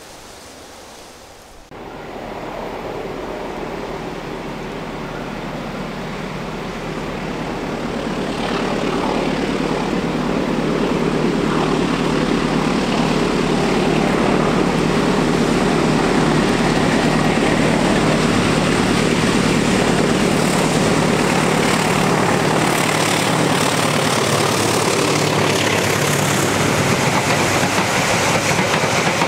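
A diesel-electric locomotive hauling a passenger train approaches. Its engine drone starts abruptly about two seconds in and grows louder over about ten seconds, then holds steady and loud as the locomotive and coaches run close past.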